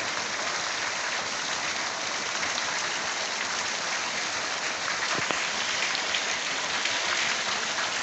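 Heavy rain falling and pattering on surfaces, a steady hiss.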